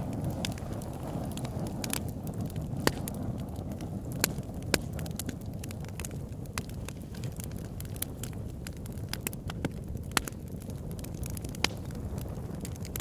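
Wood fire of a big log in an oil-drum fire pit, crackling with irregular sharp pops over a steady low rumble; the loudest pops come about three and four to five seconds in.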